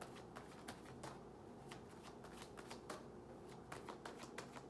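Tarot cards being handled, with faint, irregular light clicks and flicks of the cards.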